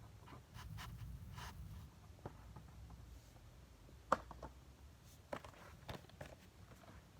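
Hands handling small die-cast toy cars and their packaging: soft rustling, then scattered small clicks and taps, the sharpest about four seconds in, over a low room hum.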